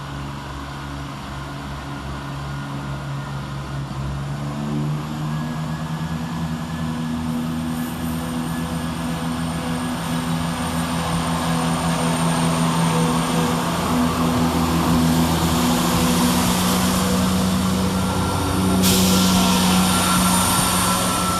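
ScotRail Class 170 Turbostar diesel multiple unit pulling away, its underfloor diesel engines throttling up with a steady note that steps up a few seconds in. It grows louder as the train gathers speed, with wheel and rail noise rising sharply near the end.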